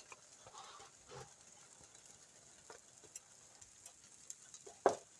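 Quiet kitchen handling sounds: a few light taps and clicks of utensils and food at the stove, with one sharper click near the end.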